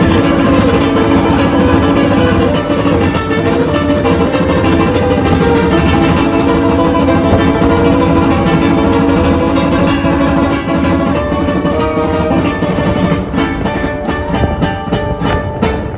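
Solo ukulele music, strummed and plucked in a fast, dense flurry of notes. The strokes grow sharper and more evenly spaced toward the end.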